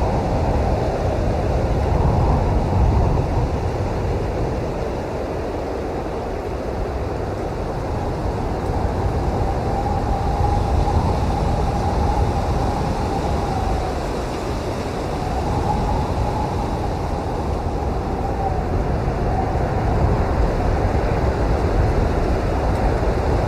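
Snowstorm wind blowing in gusts: a steady low rumble with a whistling tone that rises and falls, swelling twice in the second half.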